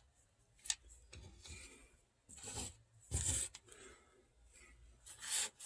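Faint rubbing and scraping of small 3D-printed resin model parts being handled, with a light click under a second in and a few short scrapes after it.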